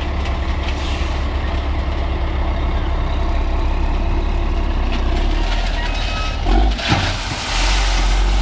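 Diesel dump truck engine running steadily under load. About seven seconds in, its note shifts and there is a short burst of hissing noise.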